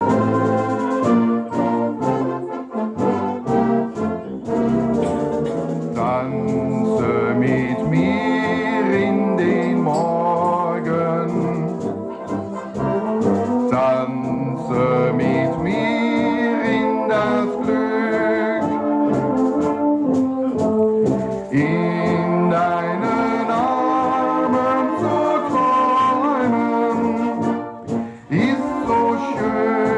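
Instrumental music led by brass instruments such as trumpet and trombone, playing a melody.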